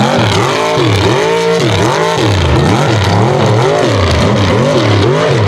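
Mega truck engine revving hard and backing off over and over, its pitch rising and falling about once a second, as the truck races the course.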